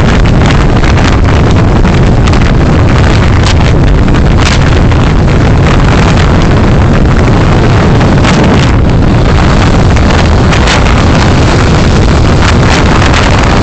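Loud, steady road and wind noise from a moving car, picked up by a dashcam microphone, heavy in the low end and dotted with frequent crackles.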